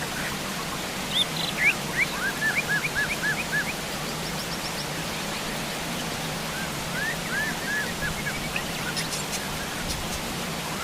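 Steady heavy rain hiss with wild birds calling over it: two runs of quick, repeated rising-and-falling chirps, about a second in and again past the middle.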